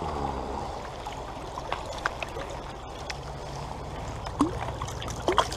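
Small stream running steadily, with a few faint splashes and clicks as a hand goes into the water.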